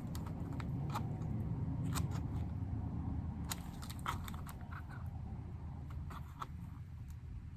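Scattered small clicks and scrapes of plastic MacBook keycaps being pried at, over a low steady hum.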